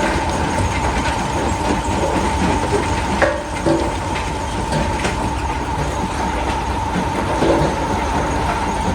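Rock crusher running: a steady heavy rumble under a constant whine, with stones knocking and clattering through it. The sharpest knock comes about three seconds in.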